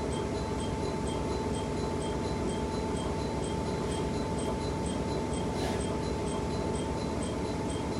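Steady running noise of a diesel railcar with a constant hum. A faint high chime repeats about twice a second throughout.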